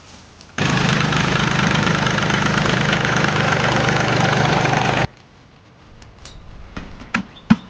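A motor engine running steadily at idle. It cuts in abruptly about half a second in and cuts off abruptly about five seconds in.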